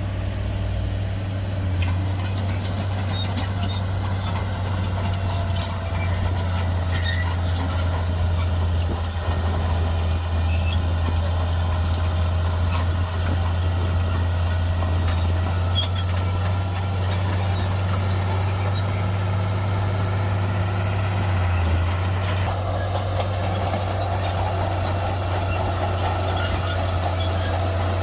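Heavy diesel engine of a Shantui bulldozer running steadily under load, a constant low drone with a faint higher whine that wavers in pitch.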